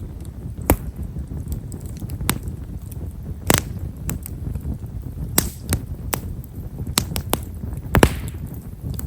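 Campfire of Japanese stewartia (himeshara) firewood crackling with fine, quiet pops at irregular intervals over the low rumble of the flames. A louder pop about eight seconds in trails off in a short hiss.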